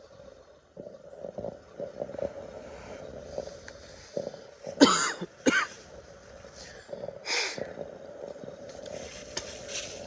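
A man coughs twice about halfway through, with a further short noisy burst a couple of seconds later, over small knocks and a steady low hum.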